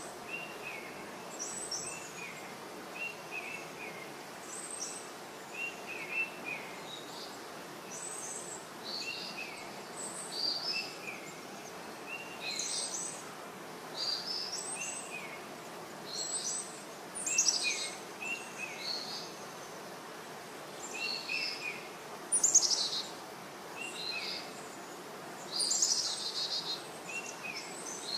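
Small birds chirping: short high chirps and quick falling twitters repeating every second or so, over a faint steady hiss.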